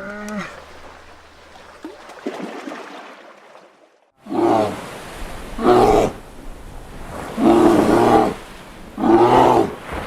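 A large animal calling loudly four times in the second half, each call about a second long, after a shorter cry near the start.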